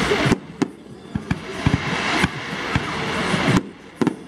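Fireworks display: a dense crackle that stops abruptly just after the start, then about half a dozen sharp bangs of aerial shells bursting, the loudest about three and a half seconds in.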